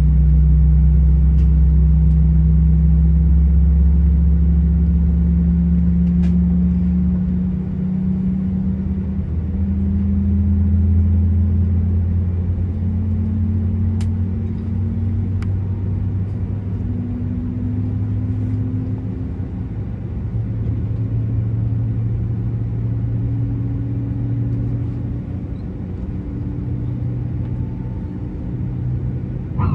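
Cabin sound of an Airbus A320 with IAE V2500 engines during takeoff: a loud, steady rumble with several engine tones that rise slowly in pitch. The deepest part of the rumble drops away about seven seconds in.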